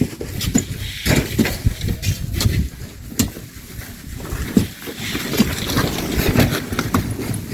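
Hand shovels scraping into sand and gravel, with irregular knocks and clinks as the loads are thrown, over a low, gusting wind rumble on the microphone.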